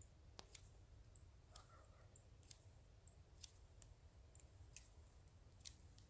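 Faint, sharp clicks at irregular intervals, about one or two a second, over a low background rumble.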